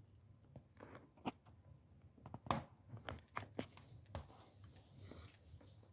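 Small wood fire crackling: faint, irregular snaps and pops of burning wood, the sharpest about halfway through.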